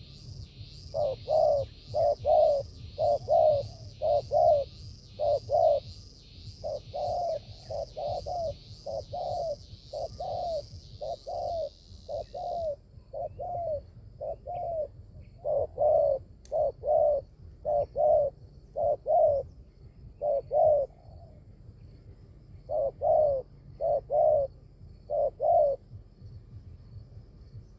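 Spotted dove cooing: a long run of short coos in uneven groups of two to five. A fast pulsing high buzz runs underneath and stops abruptly about halfway.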